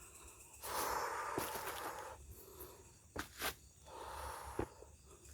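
Footsteps rustling through undergrowth: two stretches of shuffling steps with a few sharp clicks between them.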